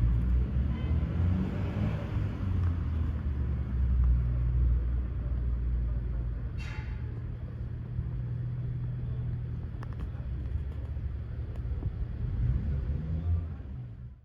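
A low steady rumble, with a brief high chirp about seven seconds in.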